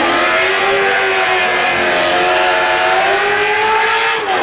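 Drift car's engine held at high revs, its pitch climbing slowly, with a brief drop just before the end.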